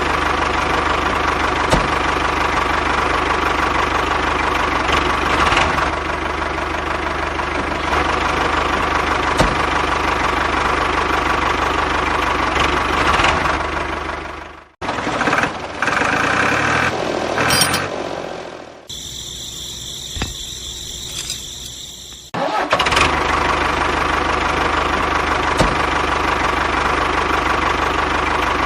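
A mini tractor's small motor running steadily. It cuts off abruptly about 15 seconds in, other quieter sounds follow for about seven seconds, and the running sound resumes near the end.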